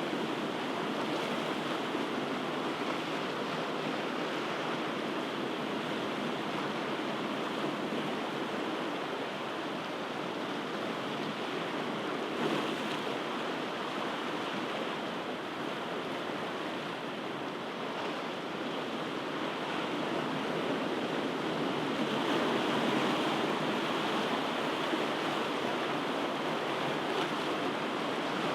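Ocean waves breaking on a shore: a steady wash of surf that swells and eases slowly, a little louder about two-thirds of the way through.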